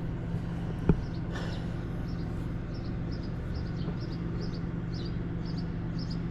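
A small bird chirping over and over, short high notes about twice a second, over a steady low hum, with a single knock about a second in.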